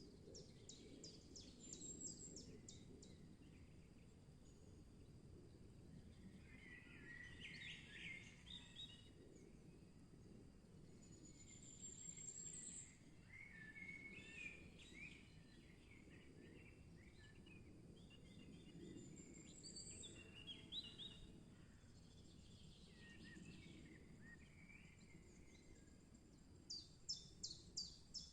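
Faint forest birdsong from several birds. A rapid series of high notes comes near the start and again near the end, with short rising whistles and warbling phrases in between, over a low steady background rumble.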